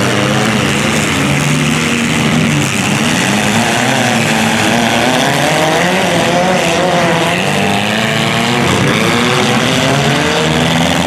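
Engines of several demolition derby compact cars revving at once, pitch rising and falling as they shove and manoeuvre against each other on dirt.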